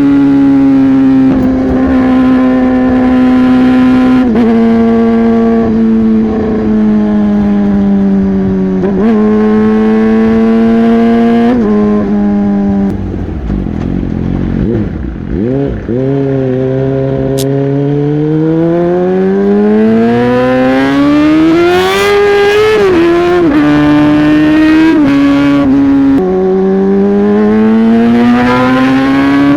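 Yamaha R15 V3's single-cylinder 155 cc engine through a modified exhaust, ridden through the gears. The engine note holds and steps with gear changes, drops low and quieter about halfway as the bike slows, then climbs in a long rising rev, dips at an upshift and rises again near the end.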